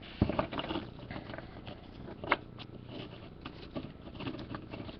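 Trading-card box and packs being opened and handled: scattered light clicks, taps and rustling of cardboard and wrapper, with a sharper tap near the start and another a little past two seconds in.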